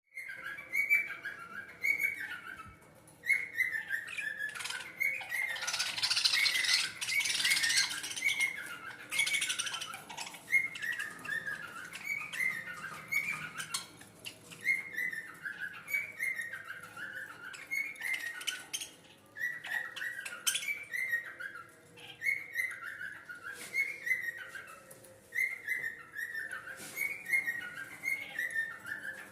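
Pet budgerigars chirping continuously, a stream of short, repeated downward-sliding chirps, with scattered sharp clicks and a louder burst of rustling noise from about five to ten seconds in.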